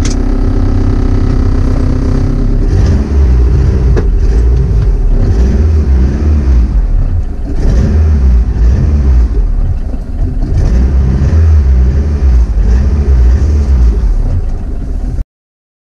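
Turbocharged Honda D16Z6 four-cylinder engine in a Honda del Sol, heard from inside the cabin. It runs steadily for the first couple of seconds, then revs up and falls back again and again as the car accelerates. The sound cuts off abruptly about a second before the end.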